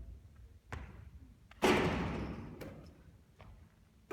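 A basketball bouncing and hitting hard: a softer thud less than a second in, then a loud bang just under two seconds in that rings on and fades slowly, followed by a few faint taps as the ball rolls and bounces away.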